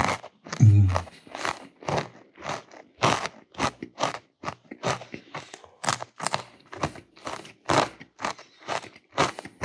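Close-miked chewing of crunchy food, a steady run of crisp crunches at about three a second. There is a short low sound about half a second in.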